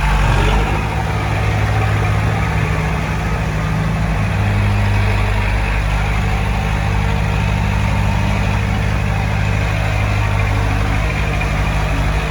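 Heavy earthmoving machine's diesel engine running steadily, with a slight shift in its low note about four seconds in.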